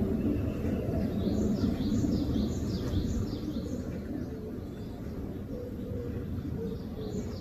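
Birds calling in a quick run of short, high, falling chirps, over a steady low rumble of outdoor background noise.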